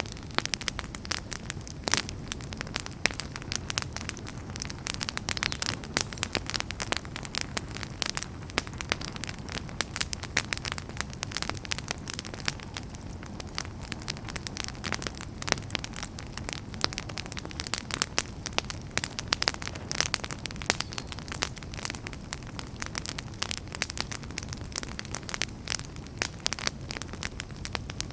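Wood fire burning, with dense irregular crackles and pops over a steady low rumble of the flames.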